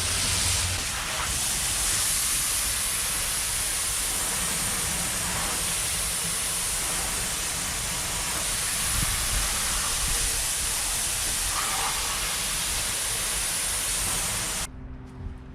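Steady spraying hiss of water from a hose nozzle, rinsing down a boat deck, cutting off abruptly about a second before the end.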